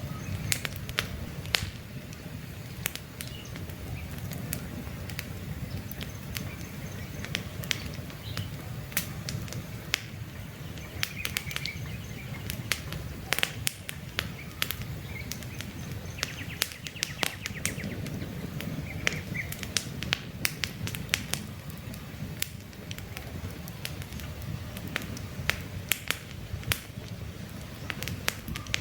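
Wood campfire crackling, with frequent sharp pops and snaps over a steady low rumble of the flames. A bird chirps briefly a few times in the background.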